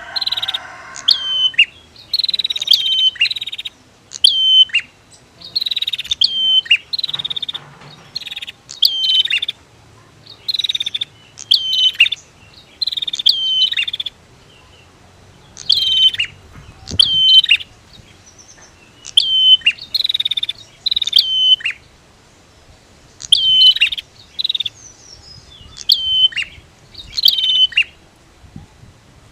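Prinia (prenjak) calling over and over: short, high, sharp phrases that each fall in pitch, repeated about once a second, mostly in pairs with short pauses between.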